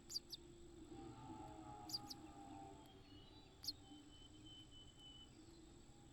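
Faint, short, high bird chirps, a few scattered notes a second or two apart, over low outdoor background noise.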